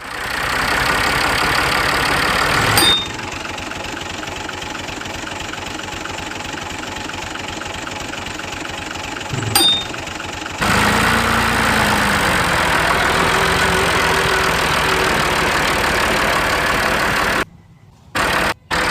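An engine running steadily, in several edited segments that change abruptly, with a short click at two of the cuts. Near the end the sound breaks into short chopped bursts.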